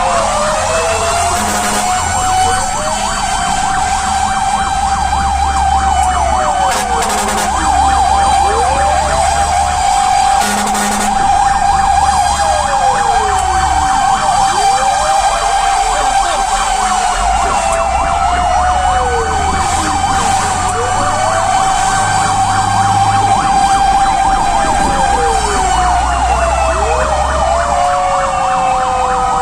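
Fire engine running its sirens while responding to a call: a held high wail with a second tone sweeping up and down about every three seconds, over the low rumble of the truck.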